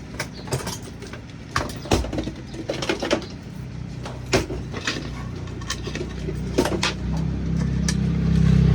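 Scattered clicks and knocks of objects being handled on a work surface. From about five seconds in, a low steady hum grows and is loud near the end.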